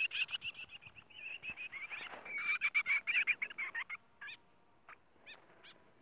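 Small birds chattering: a quick run of repeated sharp chirps for about four seconds, then a few separate short calls.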